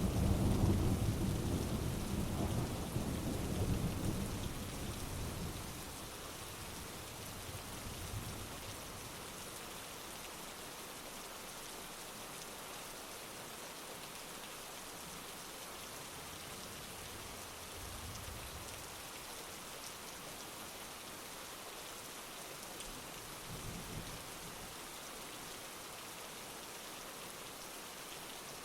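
Steady heavy rain with thunder: a loud, rolling thunderclap at the start that dies away over about five seconds, then fainter distant rumbles a few times over the rain's constant hiss.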